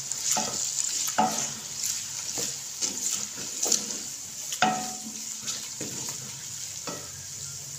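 Sliced onion and ginger-garlic paste sizzling in hot oil in a steel karahi. A wooden spoon stirs and scrapes against the pan, with a sharp stroke about once a second over the steady frying hiss.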